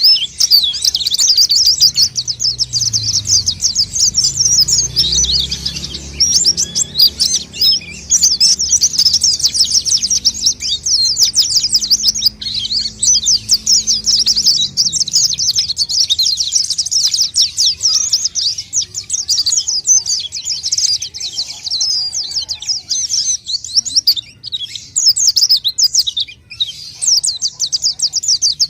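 White-eye (pleci) singing continuously: a rapid, high-pitched twittering of chirps and trills with hardly a break, as used in a lure call to draw other white-eyes. A faint low hum sits underneath for roughly the first half.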